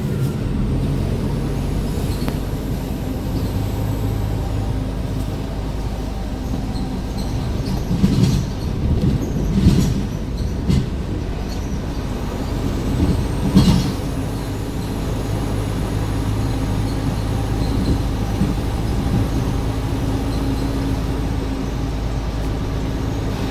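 Scania R410 truck's 13-litre inline-six engine running steadily while the truck drives, heard from inside the cab, with a few short bumps and rattles partway through.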